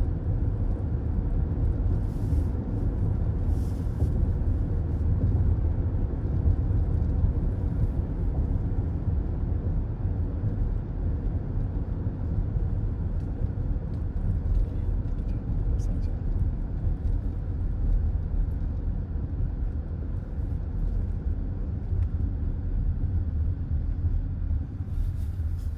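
Steady low rumble of road and tyre noise from a car travelling on a highway, heard inside the cabin.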